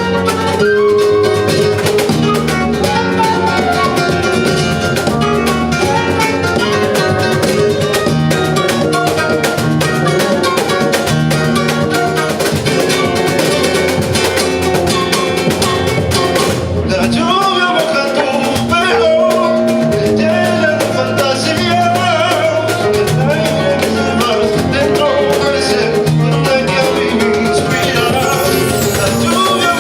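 Flamenco Spanish guitar music played live, a busy stream of plucked notes and strummed strokes that continues without a break.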